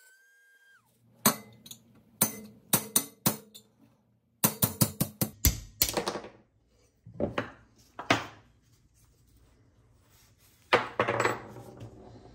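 A rotary tool spins down, then a hammer strikes a pin punch again and again, singly and in quick runs of ringing metal blows, driving the handle pin out of the ice crusher's cast handwheel as it rests on a bench anvil.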